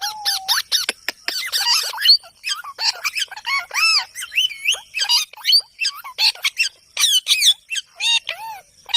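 A parrot squawking and chattering in a rapid string of short, shrill calls, each bending up and down in pitch.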